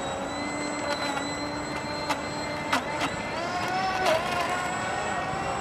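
A radio-controlled seaplane's motor whines steadily, its pitch climbing a few seconds in as the throttle changes. A few sharp clicks sound over it.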